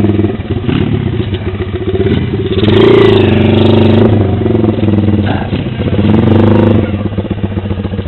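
Pit bike's small single-cylinder four-stroke engine revving up and down as it is ridden, with the throttle opened harder about three seconds in and again about six seconds in.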